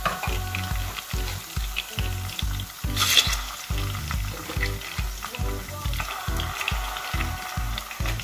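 Onions and raw rabbit pieces frying in hot olive oil in a steel pot, sizzling steadily, with a louder sizzle about three seconds in as a piece of rabbit goes into the oil. Background music with a steady beat plays underneath.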